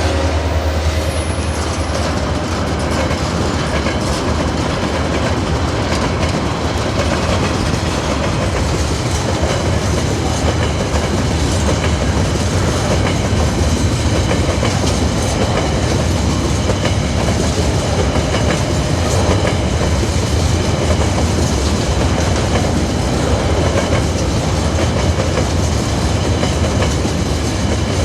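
Empty coal train rolling past: a steady rumble of steel wheels on rail with clickety-clack from the wagons.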